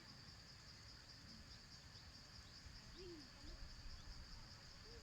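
Faint, steady high-pitched trilling of insects, such as crickets, in a quiet rural background.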